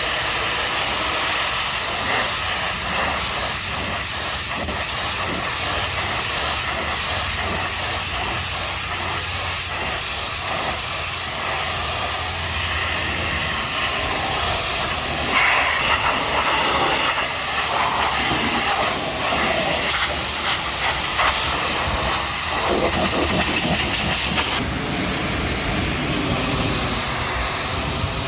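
High-pressure washer jet spraying water against a truck: a steady, loud hiss that changes tone a couple of times as the spray moves across different surfaces.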